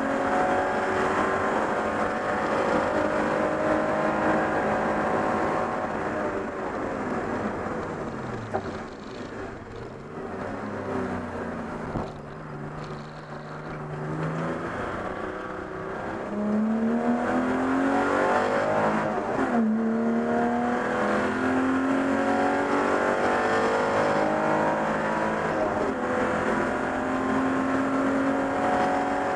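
Race car engine heard from inside the cockpit, pulling hard with the revs climbing. In the middle the revs fall and it quietens as the car slows, then it accelerates hard again with a gear change.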